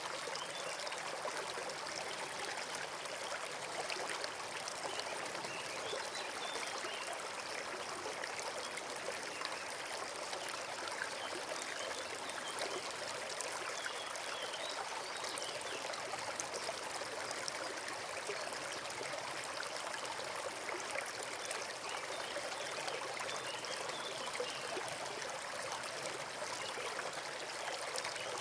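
Woodland brook running and trickling steadily, a constant even rush of water.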